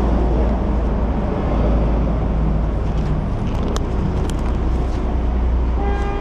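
Steady low engine and traffic rumble, with a few sharp clicks midway and a vehicle horn starting to sound near the end.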